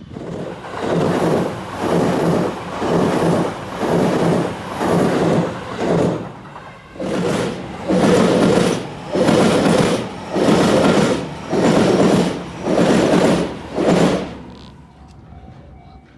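Nambu Line E233-series electric train passing close by, its wheels rumbling over the rails in swells about once a second as each bogie goes past, with a short lull partway through. The rumble fades out near the end.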